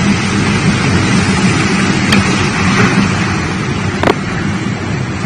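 Strong storm wind making a loud, steady rushing noise, with a sharp knock about four seconds in.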